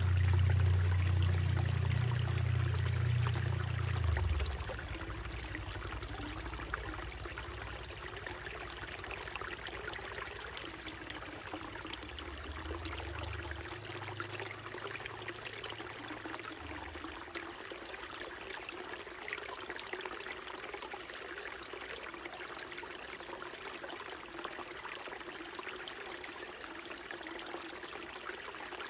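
Small mountain stream trickling and splashing steadily. A low rumble is loudest for the first four seconds and comes back more weakly around the middle.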